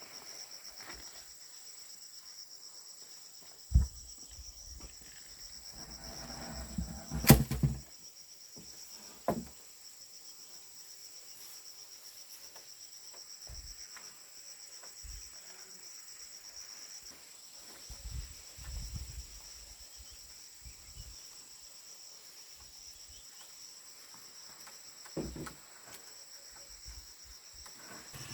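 Steady, high-pitched insect chorus, with scattered knocks and thumps over it; the loudest is a sharp knock about seven seconds in.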